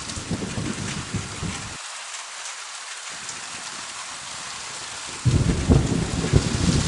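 Steady heavy rain with thunder rumbling. The low rumble fades out after about two seconds, and a loud thunderclap with rolling rumble breaks in suddenly about five seconds in.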